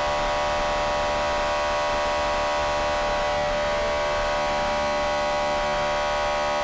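A car horn held down in one long, steady blast.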